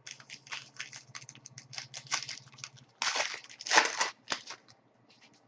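Foil wrapper of a hockey trading card pack crinkling and tearing as the pack is opened by hand, with a louder stretch of tearing and crumpling about three seconds in.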